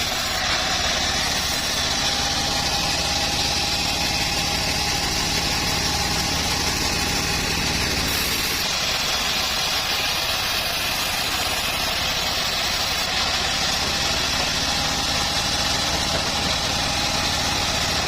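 Engine-driven homemade bandsaw mill running steadily, its motor and blade making a continuous, even machine noise.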